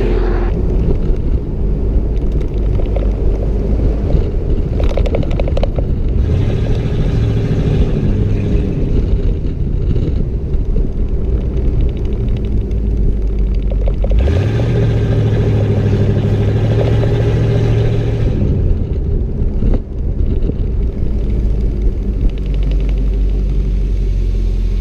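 Straight-piped 5.8-litre (351) V8 exhaust of a 1992 Ford Bronco, loud and running under varying revs. The revs climb sharply about fourteen seconds in, hold for a few seconds, then drop back.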